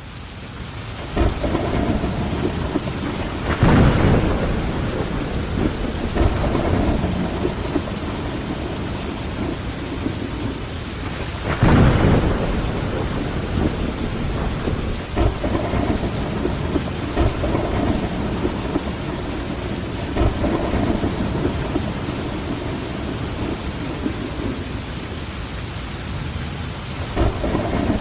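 Rain falling steadily against window glass with rolling thunder; the sound fades in at the start, and the heaviest thunder rumbles come about 4 seconds and 12 seconds in, with smaller swells in between.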